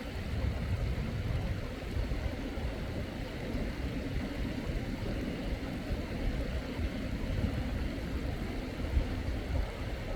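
Mountain stream water running, a steady rushing noise with a heavy low rumble.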